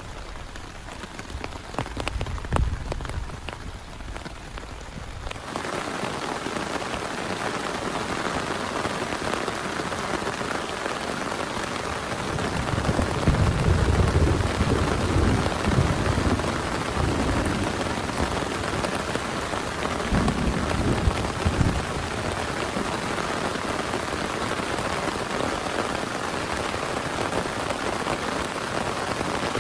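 Rain falling: scattered drops for the first few seconds, then a sudden change to a dense, steady downpour. Deep rumbles swell up twice over the rain.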